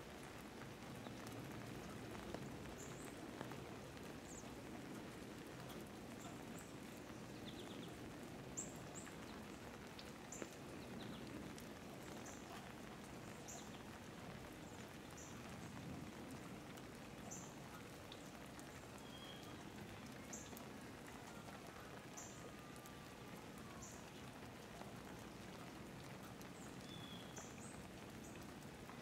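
Light rain falling steadily, with raindrops pattering, and faint short high chirps repeating every second or two.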